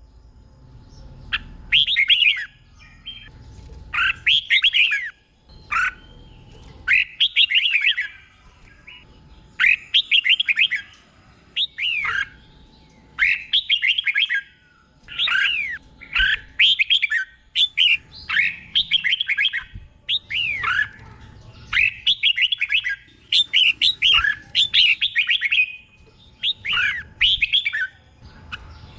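Red-whiskered bulbul singing, a string of short, loud warbled phrases one after another about every one and a half to two seconds, several of them doubled back to back.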